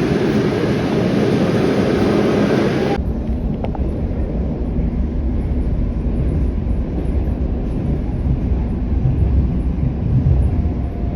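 A moving train's running noise, a steady rumble. About three seconds in it cuts suddenly to a deeper, heavier rumble.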